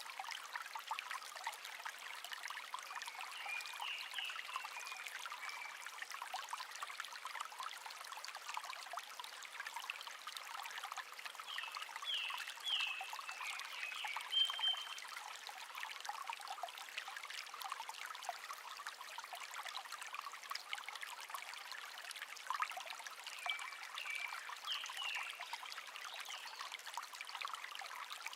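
Small stream trickling and babbling steadily over stones, with a wild songbird singing short chirping phrases three times, about a fifth of the way in, near the middle, and near the end.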